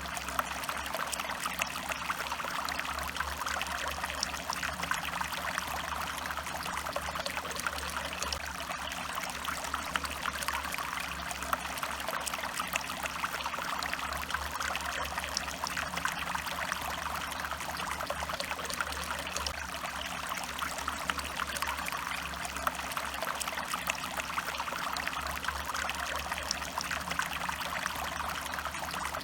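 Stream water running and trickling in a steady babble, with many small splashes and a low rumble underneath.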